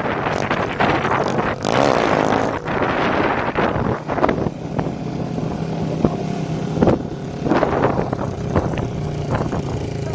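Motorcycles with straight-pipe exhausts running during a ride, with several sharp pops scattered through, over wind noise on the microphone.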